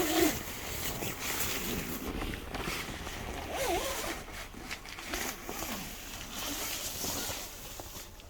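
Nylon awning fabric rustling and crackling as the deflated airbeam is slotted back into its sleeve.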